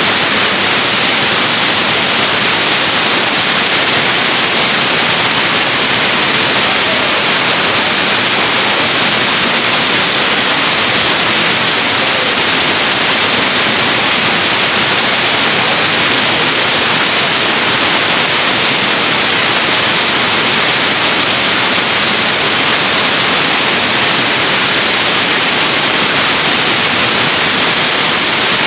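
Waterfall: a loud, unbroken rush of falling water, even throughout and weighted toward a high hiss.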